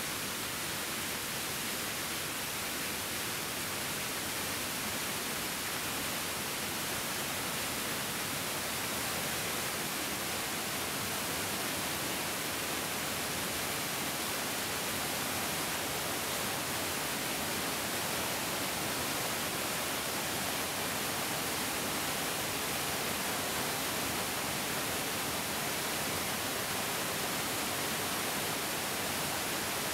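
Mountain stream flowing: a steady, unbroken hiss of rushing water, strongest in the high range with little low rumble.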